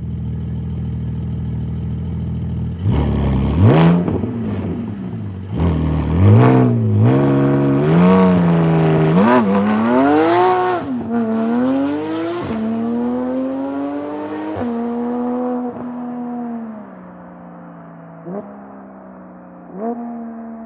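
Porsche 718 GTS 4.0's flat-six with a resonated CEES aftermarket exhaust, held at steady revs for about three seconds, then launching hard: the revs climb and drop back several times as it shifts up, then settle and fade as the car pulls away, with two short rises in revs near the end.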